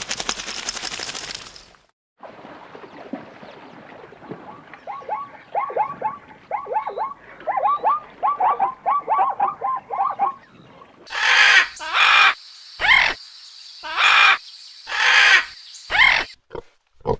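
Animal calls: a quick series of short, falling chirp-like calls, then six loud, noisy cries about a second apart.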